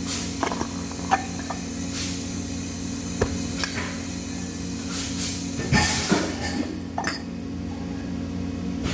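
Steady low electrical hum with scattered metallic clinks and knocks, typical of metal parts and tools being handled in a welding shop, with a short rougher scraping stretch around the middle.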